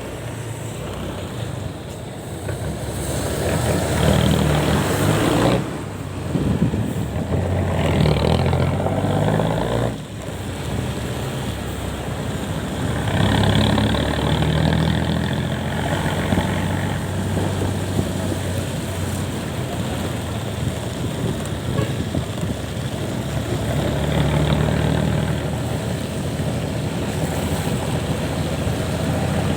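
Engine of a moving vehicle running on the road, its pitch climbing several times as it accelerates and falling away sharply about six and ten seconds in, over steady road and wind noise.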